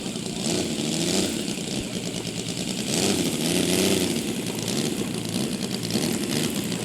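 Saito FG-84R3 three-cylinder four-stroke radial gasoline engine of a large-scale RC Zero model running at flying power. Its note swells and bends in pitch about three to four seconds in as the plane passes.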